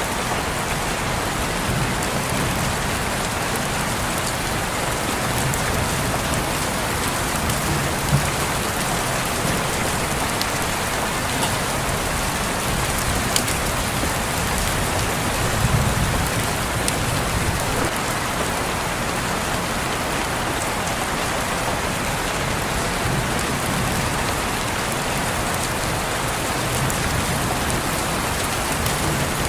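Steady rain falling on a window, an even hiss with scattered sharper drop ticks and a soft low rumble that swells about halfway through.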